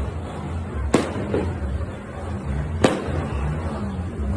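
Firecrackers and fireworks going off in New Year's celebrations: two sharp bangs about two seconds apart, another right at the end, over a low pulsing rumble.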